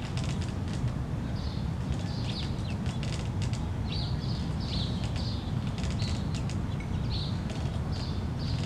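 Bird chirping over and over, short high chirps that mostly fall in pitch, about one or two a second, over a steady low outdoor rumble.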